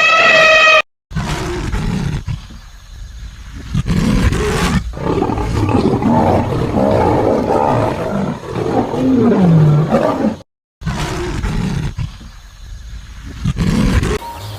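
A big cat growling and roaring, deep and rough, in several bouts with short breaks between them. It is preceded by a brief high pitched call that is cut off within the first second.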